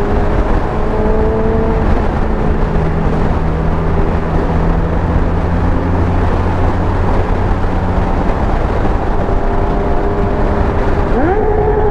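Motorcycle engine running while riding, with a steady rumble and wind on the microphone. Near the end the engine pitch rises sharply as it speeds up.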